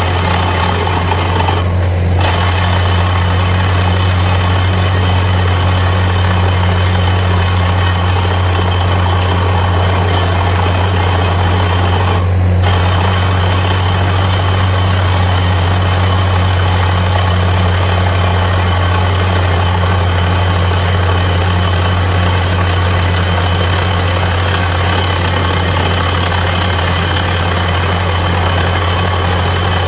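Borewell drilling rig running steadily, a loud deep hum under a broad even rush of noise. The rush briefly thins twice, about two seconds in and about twelve seconds in.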